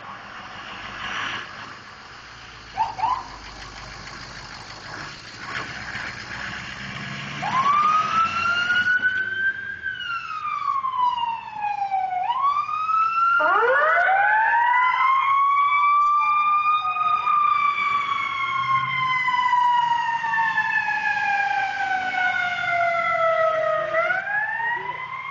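Fire department emergency vehicle sirens. One winds up about seven seconds in, and a second joins a few seconds later. Their overlapping wails each rise quickly, then fall slowly, and wind up again.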